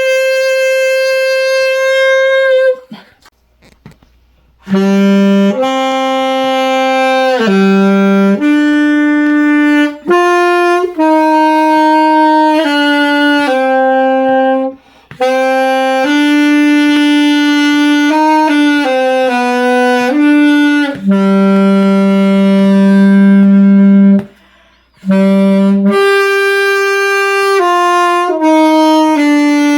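A solo wind instrument playing a slow, unaccompanied melody in held, steady notes. The phrases are broken by a short pause about three seconds in and another near the end.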